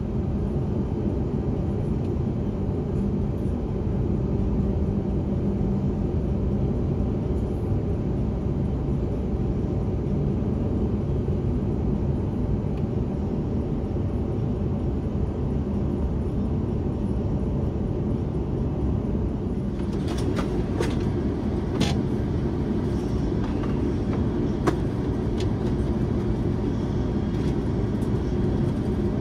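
Steady low rumble of a moving vehicle heard from inside its cabin, with a few faint clicks and rattles in the last third.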